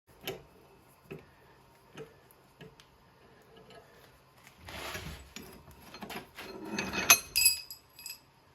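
Iron and steel parts being handled and worked: a few light metal clicks and knocks, a scrape about five seconds in, then a quick run of clinks with a short metallic ring near the end.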